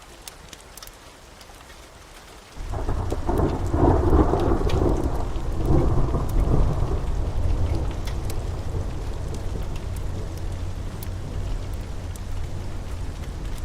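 Rain falling with scattered sharp drips, then about two and a half seconds in a clap of thunder breaks in suddenly and rolls into a long low rumble. The rumble is loudest for a few seconds, then eases but keeps going.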